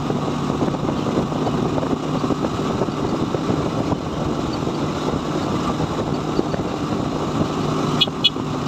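Motorcycle engine of a motorcycle-and-sidecar tricycle running steadily while riding along a road, with road and wind noise. Two short horn beeps near the end.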